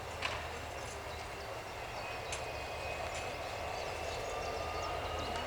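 Diesel locomotive running, with a steady rumble and a whine that slowly rises in pitch through the second half. A few sharp clicks sound over it.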